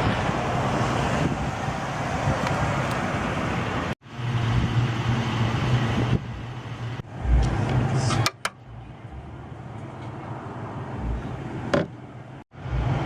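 A car engine idling steadily under outdoor background noise. The sound cuts out abruptly about four seconds in and again near the end, and a few light clicks are heard.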